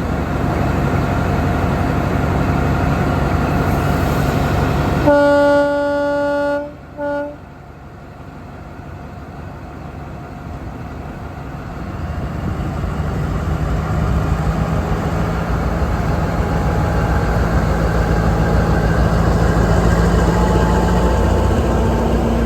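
Passenger train's diesel locomotive running, then sounding its horn: one long blast about five seconds in and one short toot soon after. The engine's low rumble then grows steadily louder, as a train does when it pulls away.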